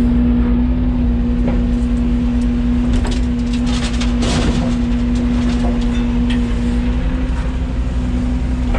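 Yanmar ViO80 mini excavator's diesel engine running steadily, with a constant low hum. A burst of scraping and clattering comes about three to four and a half seconds in.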